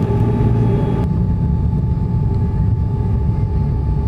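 Steady low rumble of a Boeing 777's jet engines heard inside the cabin, with a faint steady whine over it, as the airliner prepares for take-off. The higher hiss drops away abruptly about a second in.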